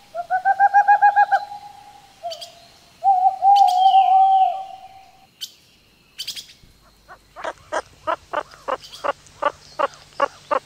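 Owl calling twice: a fast trilled call of about a second and a half, then after a short gap a wavering call of about the same length. After a pause, a quick run of short sharp chirps starts, about two or three a second.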